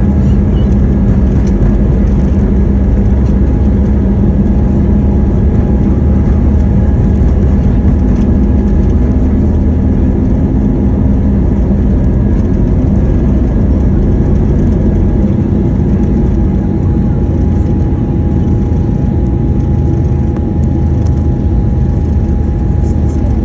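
Airbus A320neo jet engines running at takeoff power: a steady, loud rumble with steady whining tones in it, easing off a little in the last few seconds.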